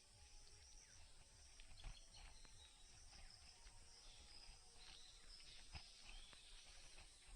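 Faint forest ambience: a steady high insect drone with many short, falling bird chirps scattered through it, and a few soft low knocks.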